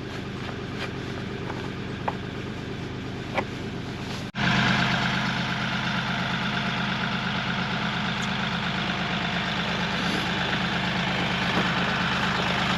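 Tractor engine idling steadily, with a couple of light clicks. About four seconds in the sound cuts out for an instant and comes back louder.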